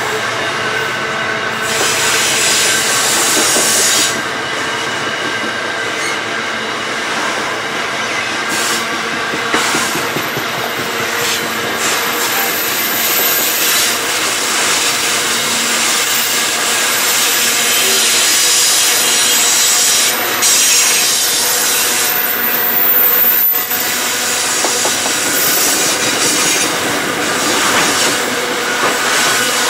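Grain hopper wagons of a freight train rolling past: a steady, loud rumble and rattle of steel wheels on the rails, with a thin, high wheel squeal coming and going.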